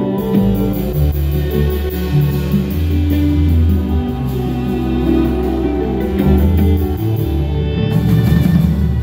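Live band music: an instrumental passage with deep, held bass notes that change every second or so under layered pitched instruments.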